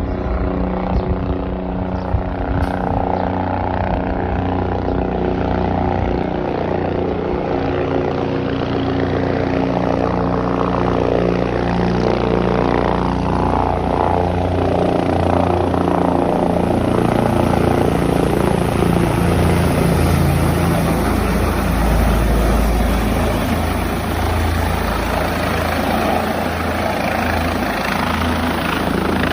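Helicopter coming in to land: loud, steady rotor and engine noise, with its tones gliding up and down partway through as it approaches.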